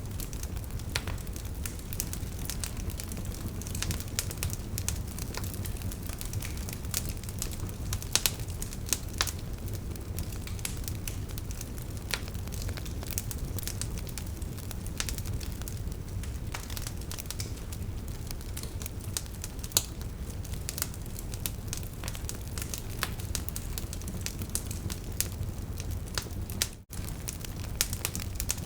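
Wood fire burning, the logs crackling and popping irregularly over a steady low rumble of the flames. A brief dropout near the end.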